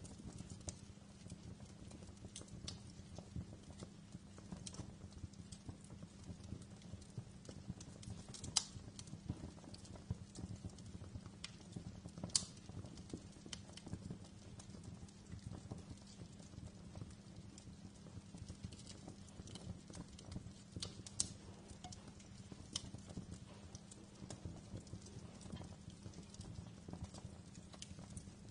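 Wood fire in a fireplace crackling steadily: dense small crackles over a low steady hum, with a few louder pops, three of them standing out.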